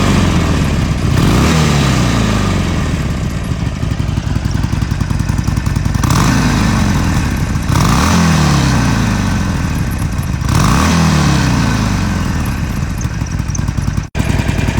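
Harley-Davidson V-twin motorcycle engine running, its throttle blipped about four times so the revs jump up and fall back to idle each time.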